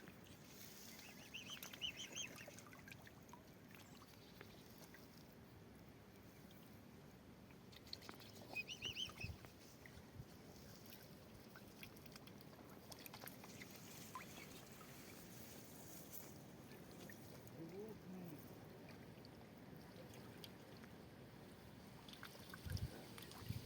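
Faint bird calls over a quiet background: short high calls about two seconds in and again around nine seconds, and one lower call near eighteen seconds.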